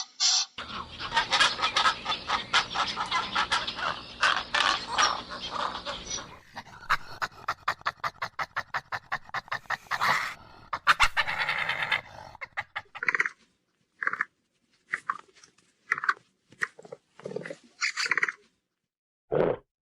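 A run of different animal calls, one clip after another: a dense stretch of calls, then a fast even series of short sounds, then a string of short separate calls with pauses between them.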